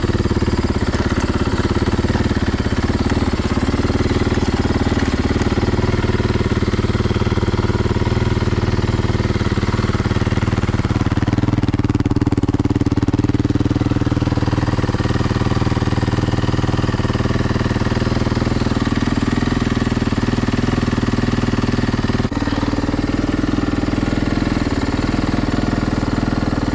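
Yamaha YZ450's single-cylinder four-stroke engine running steadily at idle on its first start after a full rebuild, warming up.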